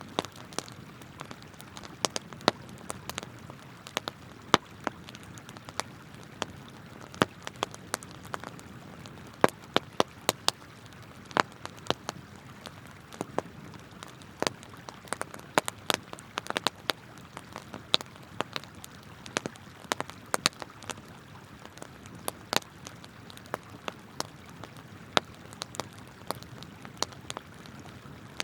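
Wood campfire crackling, with irregular sharp pops and snaps several times a second over the steady rush of flowing river water.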